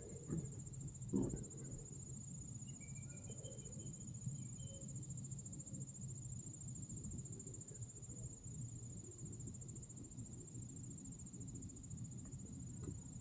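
Crickets trilling in one steady, high-pitched drone. Two knocks come near the start, the louder one about a second in.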